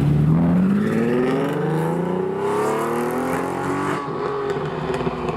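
Sports car engine accelerating hard, its pitch climbing steadily for about four seconds, then dropping suddenly as the driver shifts up or lifts off.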